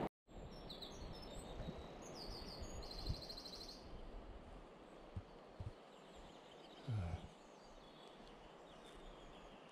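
Songbirds chirping, with a quick trill a few seconds in, over a faint steady background of outdoor noise. A few short low thumps come later, the loudest about seven seconds in.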